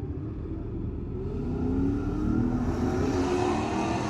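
A car engine running with a deep, steady rumble, then getting louder with its pitch rising as it accelerates from about a second in.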